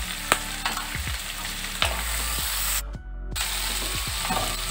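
Onion and capsicum sizzling in a non-stick wok over a high gas flame, with a wooden spatula clicking and scraping against the pan as they are stir-fried. The sizzle breaks off briefly about three seconds in.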